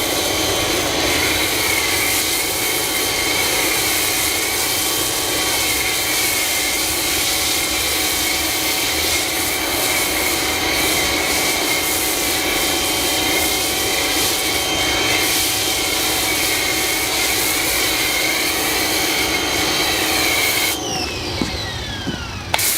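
Electric pressure washer running with a steady whine while it sprays car-wash soap through a foam cannon, a loud continuous hiss. About 21 seconds in the spray cuts off and the motor's whine falls away, followed by a single click.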